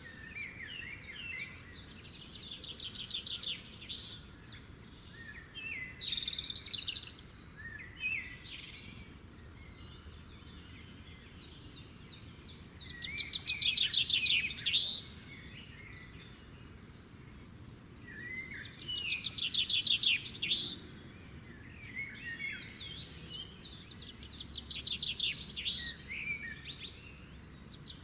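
Small birds chirping and singing in repeated bursts of quick trills, loudest about halfway through and again about two-thirds through.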